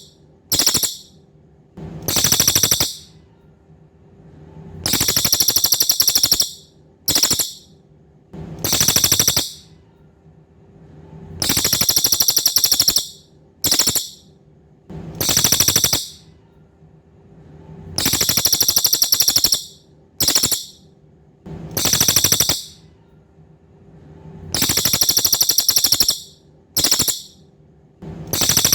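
A cililin songbird singing in very high-pitched, rapid trills, each one to two seconds long. They repeat in a regular cycle of a long trill, a short trill and another long trill about every six or seven seconds, like a looped masteran song recording. A faint steady hum sits underneath.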